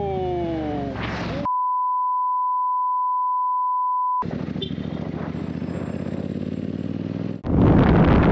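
A pure, steady censor bleep lasting nearly three seconds, with all other sound cut out beneath it. It is preceded by an engine's pitch falling as it slows down. After the bleep an engine runs steadily, and about seven seconds in a louder rush of wind noise takes over.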